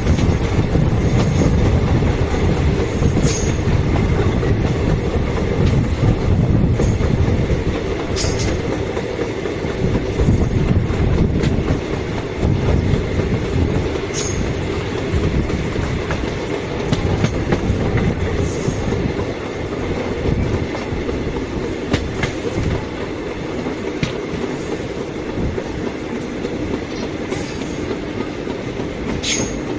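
Express train's coaches rolling past at low speed, wheels clattering over rail joints and points. Short, sharp wheel squeals and clicks cut in now and then over a steady heavy rumble.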